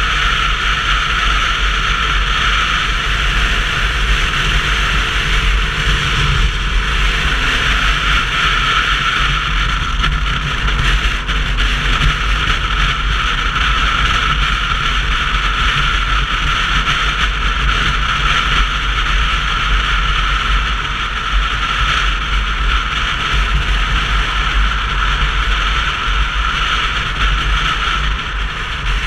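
Wind rushing over a GoPro's microphone on a moving 125cc motorcycle, mixed with road noise, a loud steady rush with a low buffeting rumble.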